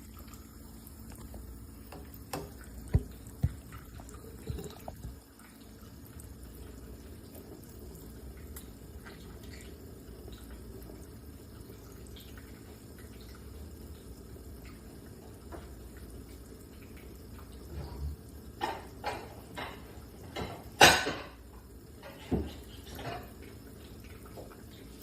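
Water splashing and dripping in short irregular bursts as a conure bathes in a shallow dish of water. There are a few splashes early, then a flurry of splashes near the end, with one loud splash among them.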